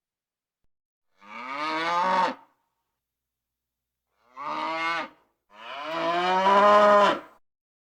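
A cow mooing three times, each moo a pitched call that rises in pitch; the third is the longest and loudest.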